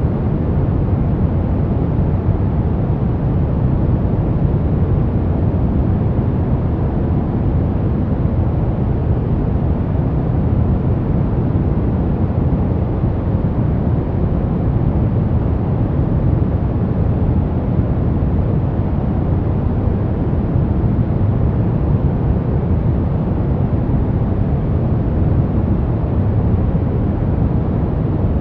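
Steady sleep-aid white noise: an even, deep hiss, heaviest in the bass and thinning toward the treble, unchanging throughout.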